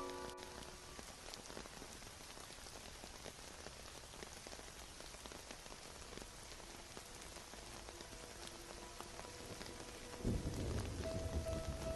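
Steady rain falling on a surface. About ten seconds in, a low rumble of thunder comes in and grows louder.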